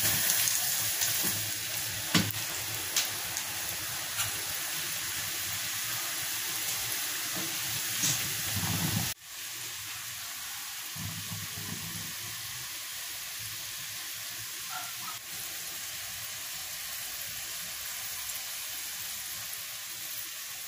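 Potato fries sizzling in hot oil in a small saucepan as they go in for their second frying. It is a loud, steady sizzle with a few sharp clicks in the first seconds. The sound breaks off abruptly about nine seconds in and carries on a little softer.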